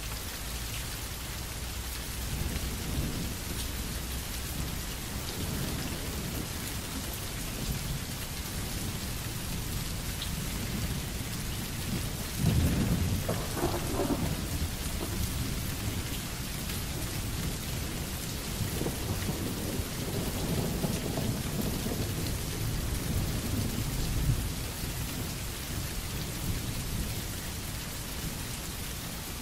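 Steady rain falling, with thunder rumbling twice: a sudden, loud roll about twelve seconds in that fades over a few seconds, and a softer, longer roll from about twenty seconds in.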